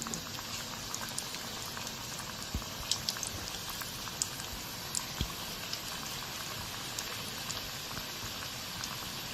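Vegetable pakoras in gram-flour batter deep-frying in hot oil: a steady sizzle with scattered sharp pops and crackles.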